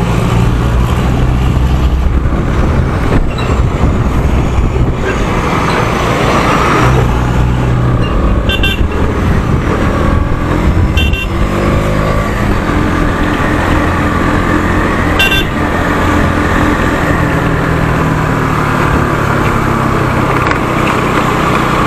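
Road noise from riding a motorbike in traffic: steady engine and wind rumble with other vehicles nearby, and short horn toots a few times, about a third of the way in, around halfway, and about two-thirds of the way through.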